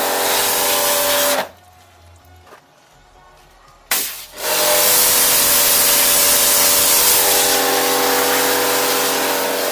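Electric power sander running against a fiberglass controller box. It stops after about a second and a half, gives a short burst near four seconds, then runs steadily again.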